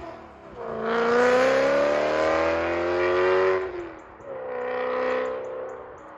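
2011 BMW M3 E92's 4.0-litre V8, with X-pipe and modified stock mufflers, accelerating hard: the exhaust note climbs for about three seconds, drops at a gear change, then climbs again briefly and fades away.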